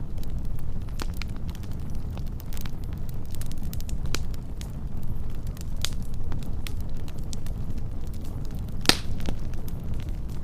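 Wood fire burning with a steady low rumble and scattered crackles, with one louder pop about nine seconds in.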